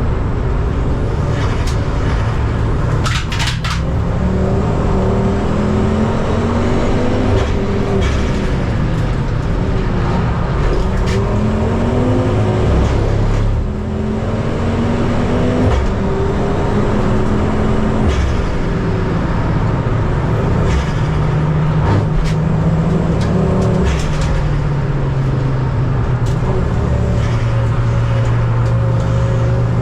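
Ford Focus ST race car's engine under hard acceleration, heard from on board: its pitch climbs, then drops back at each gear change, several times over, with a few short knocks in between.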